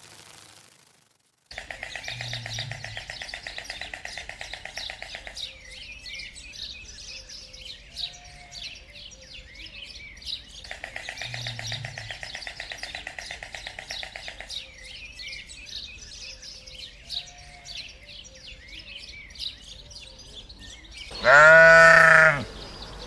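Birds chirping over a buzzy trill that comes and goes, then near the end one loud, drawn-out bleat from a farm animal, rising and falling in pitch.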